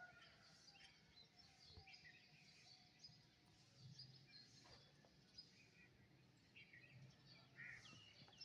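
Faint birdsong: several small birds give short, scattered chirps and calls over a low, steady background hum.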